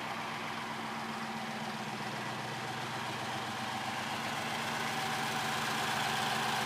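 Rover V8 engine idling steadily in a Willys Jeep, growing a little louder over the last couple of seconds.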